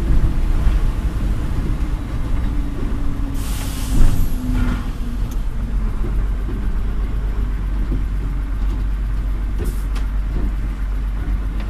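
Heavy vehicle engine running with a steady low rumble, its pitch slowly dropping over the first few seconds. A short hiss comes about three and a half seconds in, and fainter brief hisses come later.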